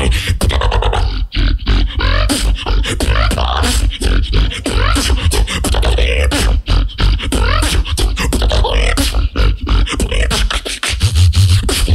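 Solo beatboxing: fast, rhythmic mouth-made drum hits over a heavy, deep bass line, with short sliding pitched sounds in between.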